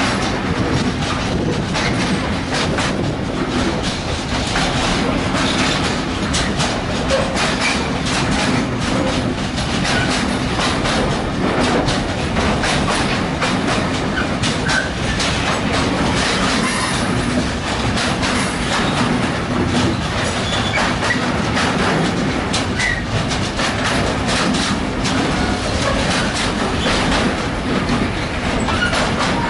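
A train rolling through the station, its wheels clattering steadily over rail joints for the whole stretch, with a few brief squeals from the wheels.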